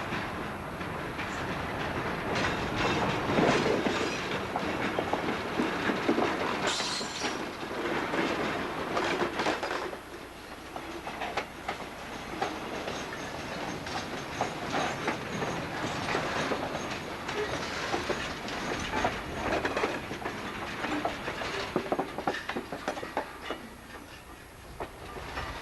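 Freight train rolling past, its wheels clicking over the rail joints, with a brief high squeal about seven seconds in.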